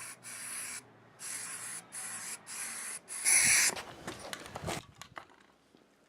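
Aerosol spray-paint can sprayed through a stencil in about five short bursts of hiss, the last one the loudest. Crinkly rustling follows for about a second.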